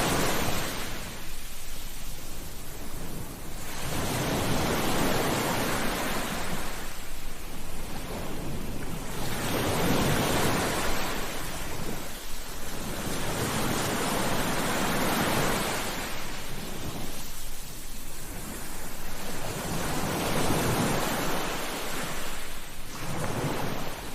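Sea waves breaking and washing on a beach, a swell of rushing surf about every three to four seconds.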